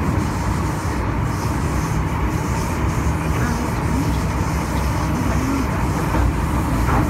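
Interior running noise of a Hong Kong MTR M-Train at speed: a steady low rumble of wheels on rail with a faint even hum, heard from inside a passenger car.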